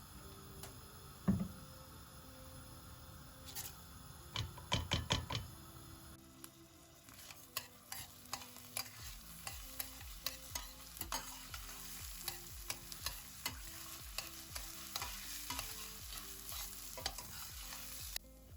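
Food sizzling in a frying pan while a utensil stirs it, clicking and scraping against the pan. There are a few sharp knocks in the first few seconds, before the sizzling starts about six seconds in.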